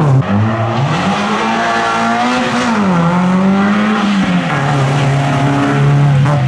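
Rally car engine at full load, its pitch climbing and then dropping sharply several times as the driver shifts and lifts, settling to a steadier lower pitch near the end.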